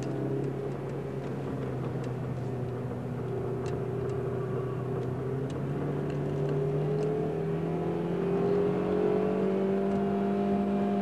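Car engine heard from inside the cabin under way on a race track. Its note holds steady for about five seconds, then rises slowly and evenly as the car accelerates.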